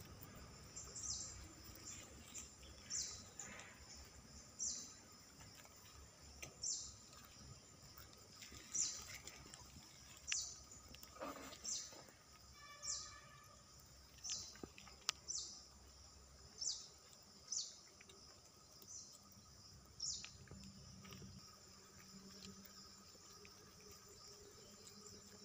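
A bird chirping: a short, high call that falls in pitch, repeated every second or two and stopping about twenty seconds in, over faint background noise.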